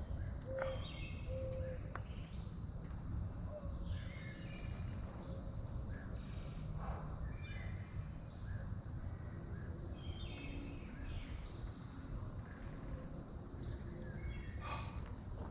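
Outdoor nature ambience: short bird calls repeat every few seconds over a steady high insect drone and a low, even background noise.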